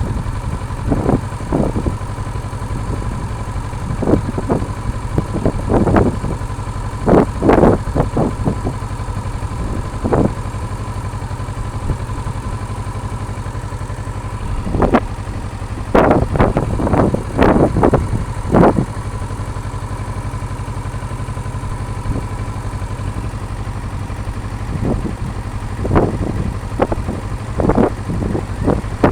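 Kawasaki Versys 650 parallel-twin engine idling steadily just after being started. Gusts of wind buffet the microphone in bursts every few seconds.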